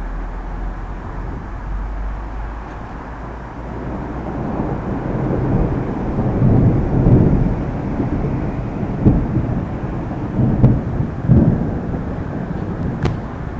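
Thunder rolling, swelling a few seconds in to a long low rumble, then several sharper surges of rumble toward the end.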